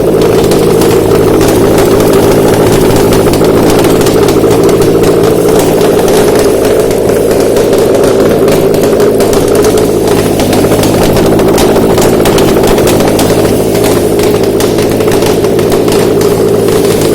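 Subaru EJ204 2.0-litre flat-four engine running steadily at idle on a test stand, the engine speed holding level throughout.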